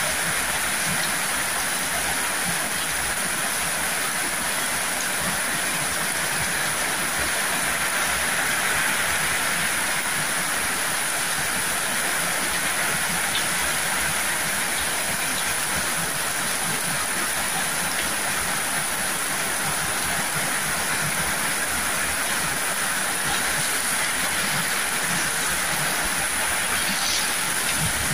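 Heavy downpour: a steady dense hiss of rain falling and pouring off roof edges, splashing onto a wet concrete alley.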